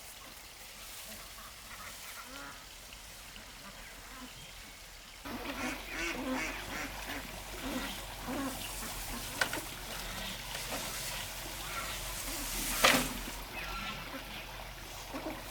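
Many short, repeated calls from a flock of farm birds, starting abruptly about five seconds in and going on irregularly, with a single sharp, loud noise about thirteen seconds in.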